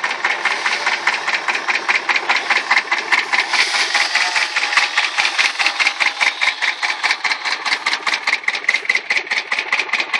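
A small engine running steadily, with an even pulse about six times a second and a hiss over it.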